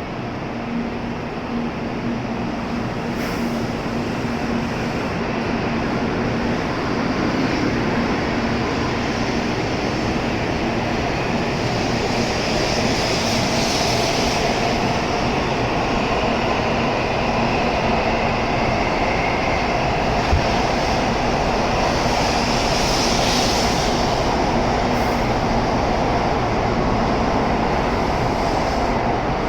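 N700A-series Shinkansen train pulling out of the station. Its running noise builds over the first several seconds and then holds steady as the cars go by.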